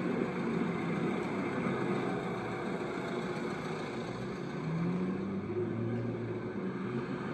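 Steady noise of a vehicle running, with a faint hum that rises slightly about five seconds in.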